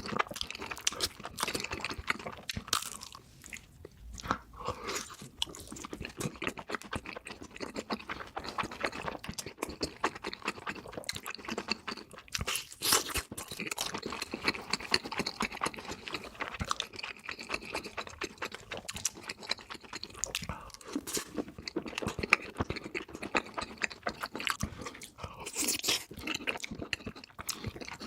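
Close-miked eating sounds: a person chewing, biting and crunching food with wet, crackly mouth noises, sped up to double speed so the bites come thick and fast.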